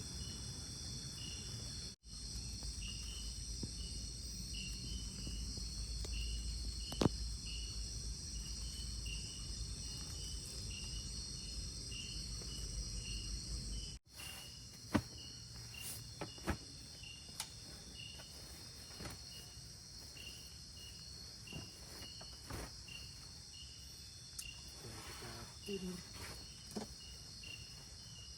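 Insects droning in a steady high chorus, with one cricket chirping about twice a second. A few scattered sharp clicks, the loudest about seven seconds in.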